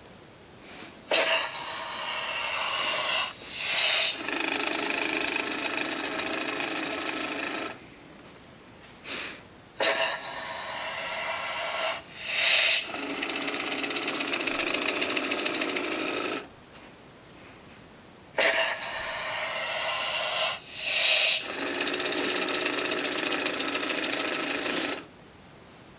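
Tekky Toys animated striking snake Halloween prop running through three activation cycles: its small gear motor whirs steadily for several seconds at a time, broken by short loud bursts, with brief pauses between cycles. The uploader suspects a bad motor or springs.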